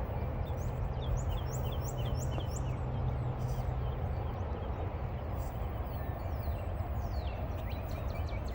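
Birds chirping in many short, quick rising notes over a steady low rumble.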